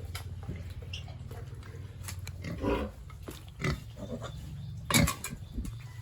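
Pigs grunting in short calls a few times, the loudest about five seconds in, over a steady low hum.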